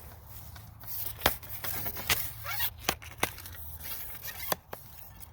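Crinkling, scraping handling noise of a light balsa-and-film model airplane being picked up, with several sharp clicks, the loudest about a second in.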